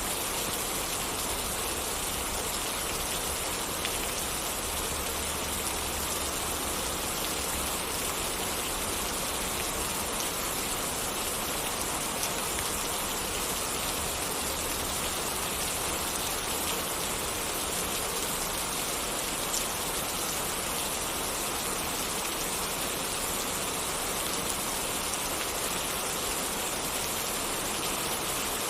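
Steady rain falling, an even, unbroken hiss with a few faint ticks scattered through it.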